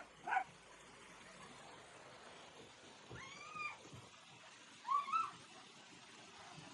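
A cat meowing: two short calls, one rising and falling about three seconds in and another about five seconds in.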